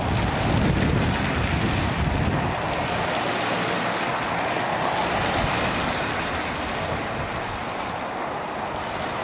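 Storm wind: gusts buffeting the microphone with a heavy low rumble that eases after about two and a half seconds, leaving a steady rushing hiss.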